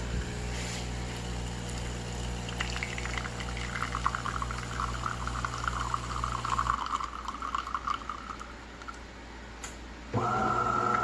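De'Longhi Dinamica espresso machine brewing: its pump hums with a pulsing rumble while coffee pours into a cup, both stopping about seven seconds in, followed by a few drips. Just before the end a loud steady whine starts.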